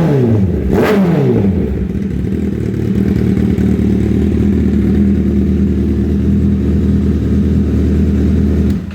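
Honda CBR1000RR Fireblade's inline-four engine through an Austin Racing exhaust: one quick throttle blip about a second in that rises and falls in pitch, then a steady idle. The sound cuts off suddenly near the end.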